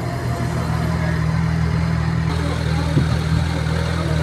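A motor vehicle's engine idling steadily, a low even hum with no revving, with one brief knock about three seconds in.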